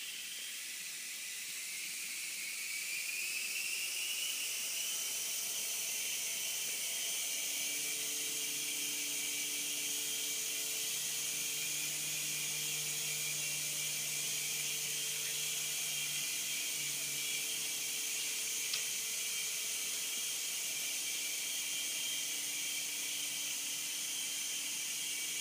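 Toy remote-control helicopter's small electric rotor motor whirring with a steady hiss. Its high whine rises as it spins up over the first few seconds, then holds steady, and a faint low hum joins partway through.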